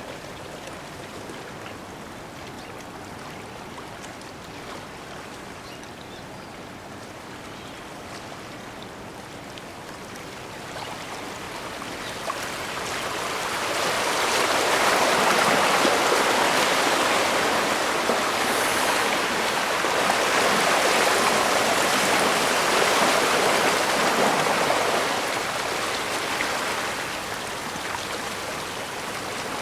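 Bay water washing against the shore: a steady hiss of moving water that swells louder about halfway through and eases again near the end.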